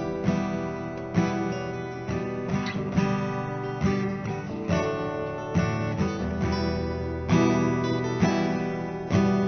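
Acoustic guitar playing a slow ballad accompaniment, chords struck about once a second and left to ring, in an instrumental gap between sung lines.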